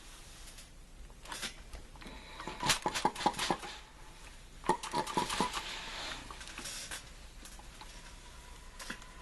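Light clicking and rattling of small hard objects being handled, in two spells of rapid clicks a little over a second apart, with a faint steady tone beneath them.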